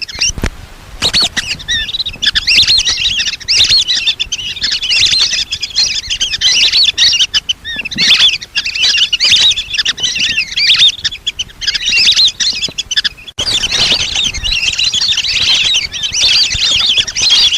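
A flock of lesser whistling ducks calling without pause: many overlapping high, wavering whistles and chirps. There is a brief sharp break about 13 seconds in.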